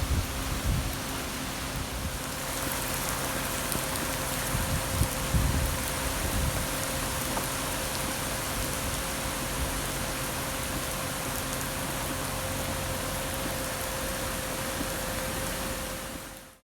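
Heavy typhoon rain pouring steadily, with low rumbling gusts about half a second in and again around five seconds in, and a faint steady hum underneath; the sound cuts off suddenly near the end.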